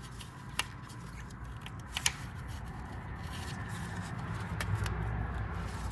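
Hand work in an engine bay: a few sharp clicks and light handling noises as the fuel feed line to the high-pressure fuel pump is reconnected, the loudest a close pair of clicks about two seconds in.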